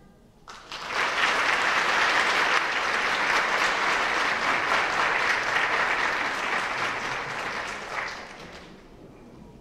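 Audience applauding, starting about half a second in, holding steady, then dying away over the last couple of seconds.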